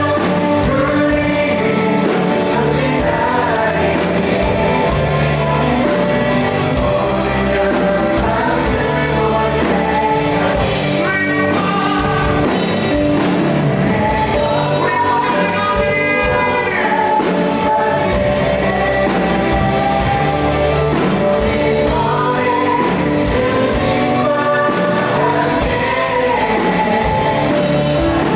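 Live contemporary worship music: a band with drums, bass, electric guitars and keys playing while vocalists sing, in a large hall.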